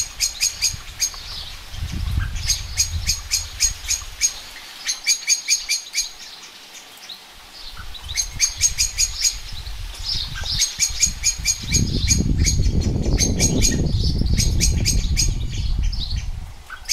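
Small songbird singing outdoors: bursts of quick, sharp, high chirps repeated in rapid runs about a second long, again and again. A low rumble swells up in the second half and fades near the end.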